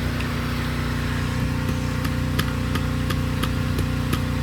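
Pressure washer engine on the truck running steadily. About a second and a half in, a sharp clicking starts at about three clicks a second.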